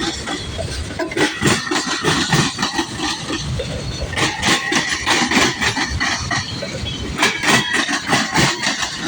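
Freight train cars rolling past, wheels clicking and knocking steadily over the rail joints, with a thin high squeal from the wheels that comes and goes.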